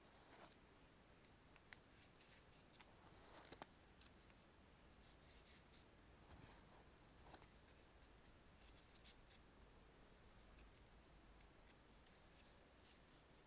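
Faint crackling and rustling of paper being folded and creased by hand.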